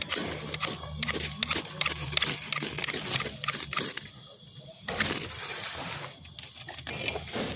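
Pocket-knife blade scraping a magnesium fire-starter rod in a run of quick, sharp rasping strokes to throw sparks onto dry leaves, with a pause about four seconds in and one strong stroke about a second later.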